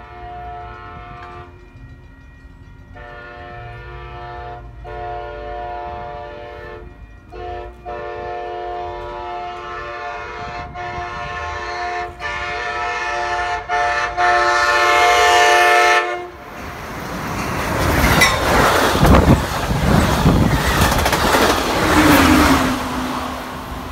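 Amtrak Pacific Surfliner passenger train sounding its horn in a series of blasts that grow steadily louder as it approaches. At about sixteen seconds the horn stops and the train passes close by with a loud rushing rumble of cars and wheels on the rails.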